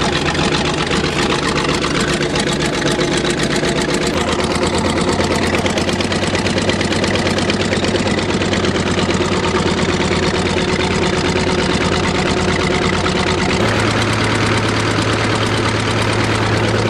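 Old bulldozer engine running steadily just after a cold start in the snow. Its low tone shifts a few seconds in and again near the end.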